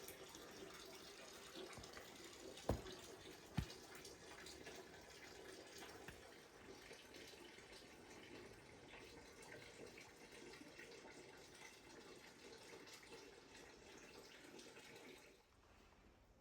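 Faint, steady rain falling, full of small drips, with two sharp taps of drops about three seconds in. The rain sound fades away about a second before the end.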